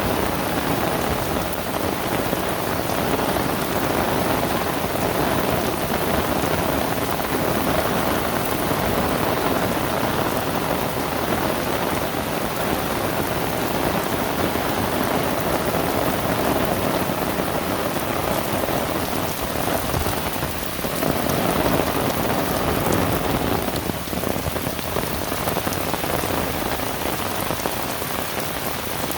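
Heavy rain falling steadily, a dense hiss of drops hitting surfaces, swelling briefly about two-thirds of the way through.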